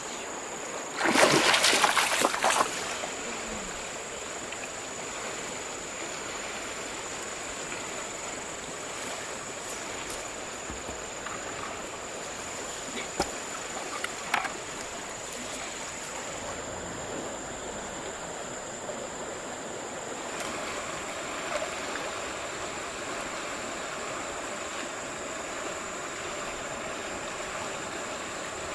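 River water running steadily, with a loud splash about a second in that lasts under two seconds, and two short knocks near the middle.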